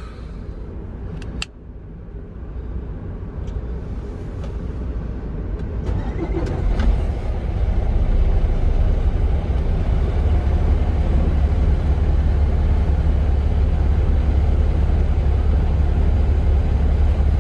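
Semi truck's diesel engine and road noise heard from inside the cab, a steady low rumble that grows louder over the first eight seconds or so and then holds steady. A sharp click sounds about a second and a half in.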